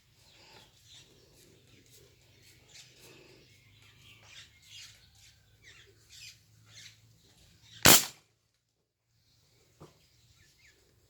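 A single sharp, loud shot from a PCP air rifle about eight seconds in, over faint chirps and small clicks.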